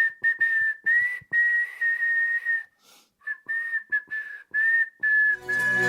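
Pressure cooker whistling: one steady high-pitched whistle with a little hiss, broken off and restarting many times, fading out briefly about halfway through. Background music comes in near the end.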